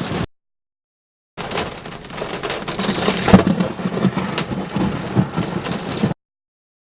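Heavy hailstorm: a dense clatter of hail pelting down, dotted with sharp, hard strikes from larger hailstones, the loudest about three seconds in. The sound breaks off to dead silence for about a second near the start, resumes, and cuts off again near the end.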